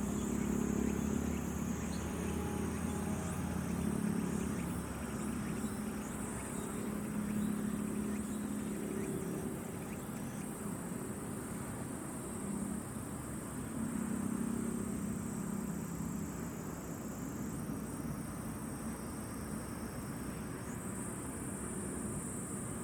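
A distant engine drones low, swelling and fading a few times, over a steady high-pitched chorus of insects.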